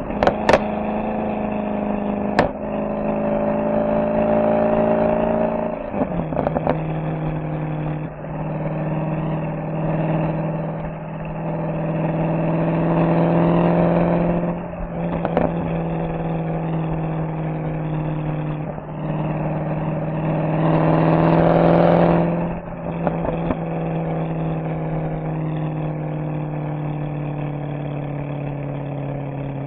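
Mercedes-AMG SL63's V8 engine and exhaust under way, the note rising under throttle and dropping several times at gear changes or throttle lifts, with brief sharp cracks at some of those drops. After a last pull about two-thirds of the way in, the engine settles to a steady, slowly falling drone.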